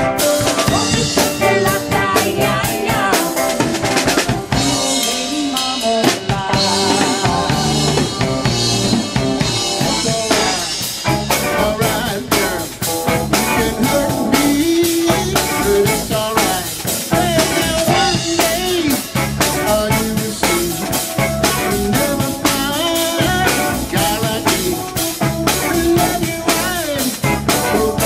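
A band playing, with a steady drum-kit beat of bass drum, snare and rimshots out front.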